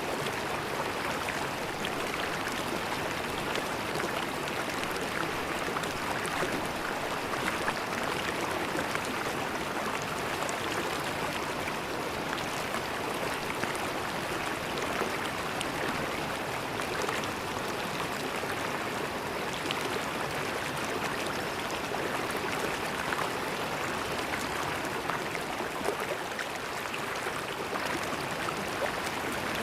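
River water flowing and gurgling over rocks, a steady rush with fine splashing and trickling.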